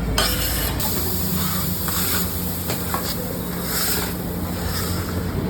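Food frying on a hot iron tawa, sizzling, with a few irregular metal scrapes and knocks over a steady low hum.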